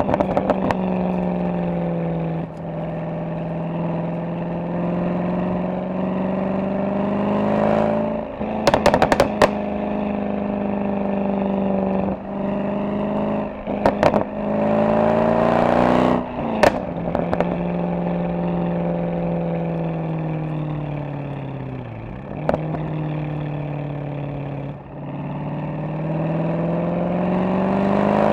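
Mercedes-AMG SL63's V8 engine and exhaust driving along, the engine speed climbing and falling again and again, with a few sharp crackles breaking through.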